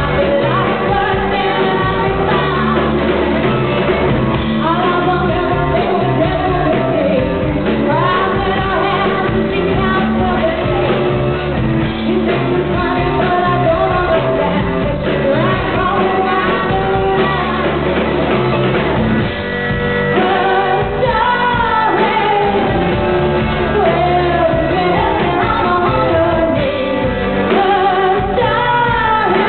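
A band playing live with a singer's voice over it; the sung lines rise and fall over a steady, dense accompaniment.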